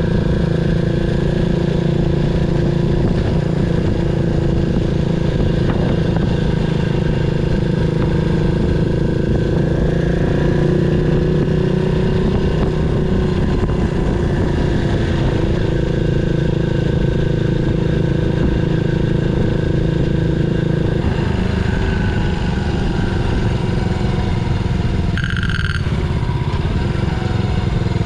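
Yamaha SR400's air-cooled single-cylinder four-stroke engine running under way, its pitch rising and falling gently with the throttle. About 25 seconds in there is a brief high tone.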